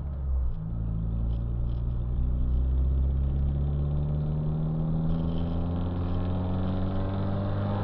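Car engine heard from inside a car cabin, accelerating: after a brief break about half a second in, its note climbs slowly and steadily in pitch.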